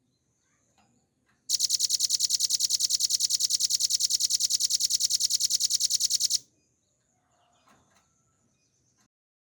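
Velvet-fronted nuthatch giving one long, rapid, even trill of high repeated notes, about ten a second, lasting about five seconds. It starts about a second and a half in and stops abruptly.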